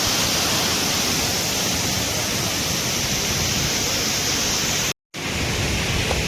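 Steady rushing noise, even and without any tone, cut off for a moment about five seconds in before it resumes.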